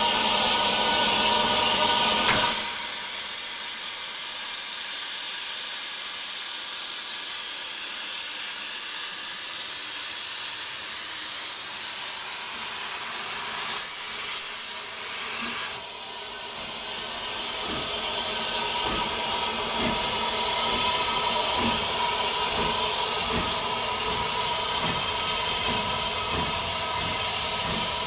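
Steam locomotive 2150 'Mardy Monster', an industrial saddle tank, hissing steam loudly and steadily. About halfway through the hiss drops sharply, and slow, regular exhaust chuffs begin as it starts to pull away, quickening slightly.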